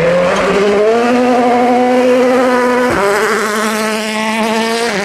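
A 2017 World Rally Car's turbocharged 1.6-litre four-cylinder engine at high revs under hard acceleration. The note climbs early on and holds fairly steady, with a quick break about three seconds in, as at a gearshift.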